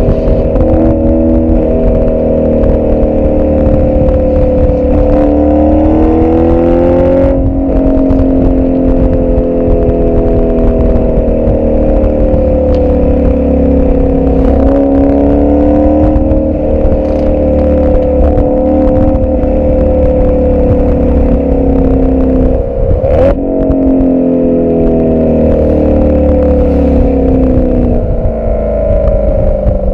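Twin-turbo V8 of a tuned Audi RS6 C7 running through an Akrapovic exhaust, heard close at the rear of the moving car. The pitch drifts up and down with engine speed and rises about five to seven seconds in before dropping sharply, like an upshift. A sharp click about 23 seconds in is followed by another drop in pitch.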